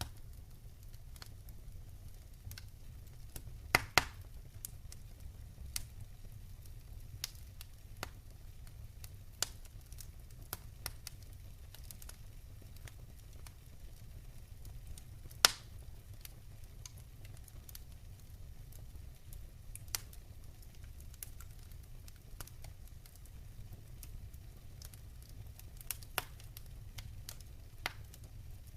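Wood fire in a fireplace crackling, with irregular sharp snaps and a few louder pops, the loudest about halfway through, over a steady low rumble.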